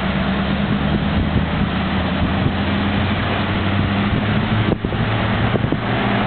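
Scania 143 truck's V8 diesel engine running at steady revs, a loud low drone, with a brief drop about three-quarters of the way through.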